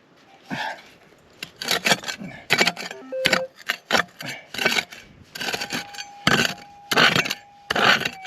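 A digging pick striking and scraping stony ground about a dozen times, with a steady electronic tone from a metal detector's speaker sounding briefly around the middle and again through the second half.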